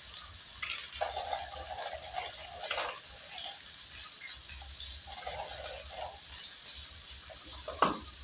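Oil sizzling steadily in a wok as anchovies and peanuts are stir-fried, with a few light clinks of a spoon and one sharper clink near the end.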